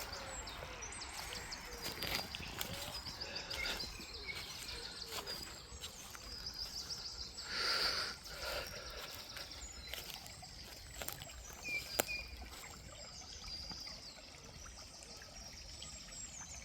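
Several songbirds singing, with repeated quick high trills and short chirps, over the faint trickle of a small beck. A brief louder rustle swells about eight seconds in, and there is a single sharp click a few seconds later.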